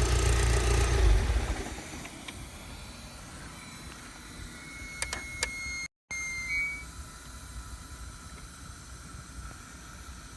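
VW Scirocco R's turbocharged four-cylinder engine running, then dying away about a second and a half in, as when it is switched off. Afterwards it is quieter, with two sharp clicks and a short high beep near the middle.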